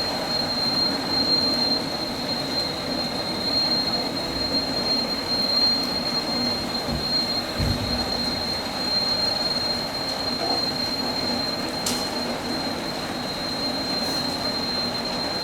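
Steady rushing noise at a fire scene, with a continuous high-pitched whistle held at one pitch and a brief low thud about seven to eight seconds in.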